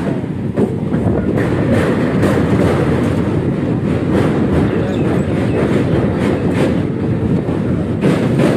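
Kolkata suburban electric local train (EMU) running, heard from on board: a loud steady rumble of wheels on rails with irregular clicks from the wheels over the rail joints as it crosses a steel truss bridge.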